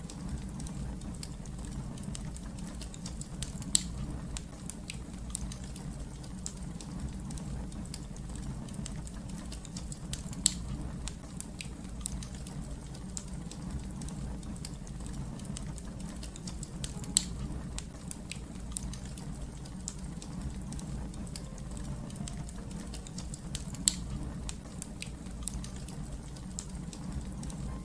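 Fire crackling: a steady low rumble with frequent small snaps and four louder pops, spaced about seven seconds apart.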